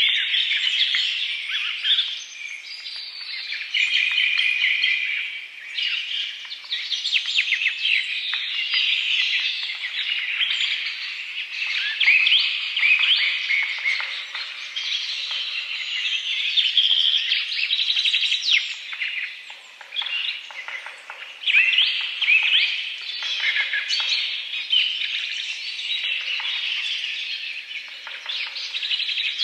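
Many small birds chirping and twittering together, with overlapping calls that swell and ease off over and over.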